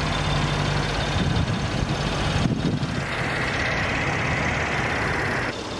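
A 3.6-litre direct-injection V6 idling steadily under an open hood. A higher steady hiss joins about halfway through and cuts off shortly before the end.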